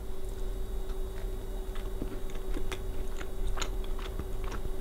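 A person chewing a bite of soft marble cake, with small wet mouth clicks scattered through.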